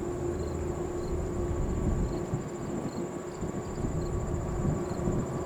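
Steady low rumble of a distant Airbus A380-800's four jet engines on departure, with a continuous high insect chirring over it.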